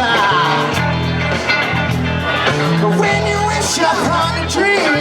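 Live amplified rock band music with a steady bass line and a wavering lead voice or instrument over it.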